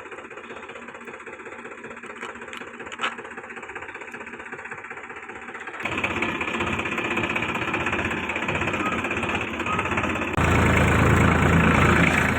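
Tractor engine running with an even chugging beat, jumping louder suddenly about six seconds in and again about ten seconds in.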